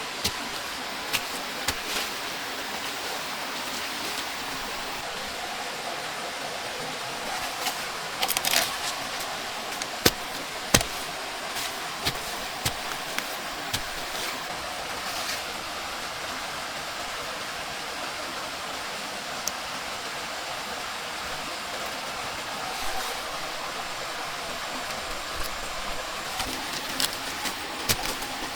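Steady hiss of heavy rain, broken by scattered sharp knocks and clicks, with a short cluster of them about a third of the way in.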